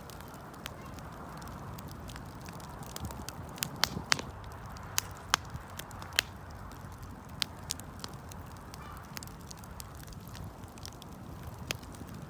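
Wood campfire crackling: scattered sharp pops and snaps, a cluster of louder ones in the middle, over a steady low rushing of the flames.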